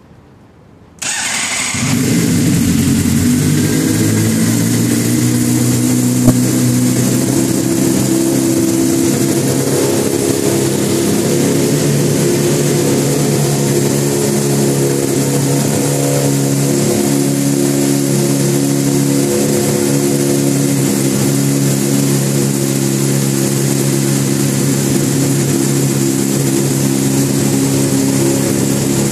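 2011 Honda CBR600RR's inline-four engine starting about a second in and settling into a steady idle, heard through a Two Brothers Black Series carbon-fibre slip-on exhaust. There is one sharp tick a few seconds after it catches.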